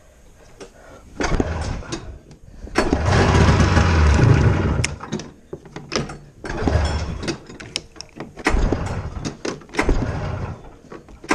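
1990 Polaris Indy Trail 488 snowmobile's two-stroke twin being pull-started cold: a series of short cranking bursts, with the engine catching and running unevenly for about two seconds around three seconds in before dying, then more pulls.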